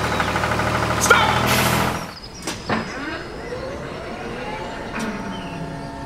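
Small motor whirring, loud for the first two seconds, then quieter with a pitch that slowly rises.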